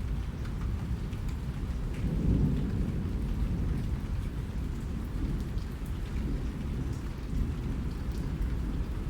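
Steady rainfall: a dense, deep rumbling wash with scattered sharp drop ticks on top, the rumble swelling a little about two seconds in.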